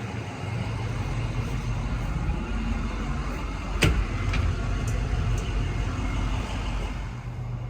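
Box truck engine running steadily, with one sharp click about four seconds in.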